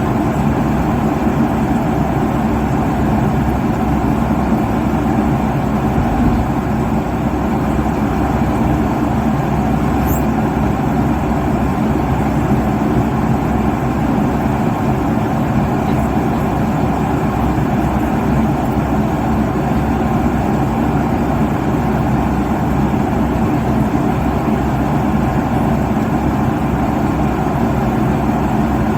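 Airliner cabin noise at cruise altitude: a steady, deep rush of engine and airflow noise that holds even throughout, with no changes.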